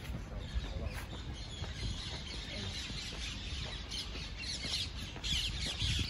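Birds calling: many short, high calls, coming thickest in the last couple of seconds, over a low steady rumble.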